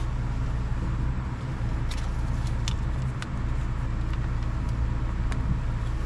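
Steady low drone in the background, with a few light, sharp clicks of a small metal suspension part being handled and cleaned.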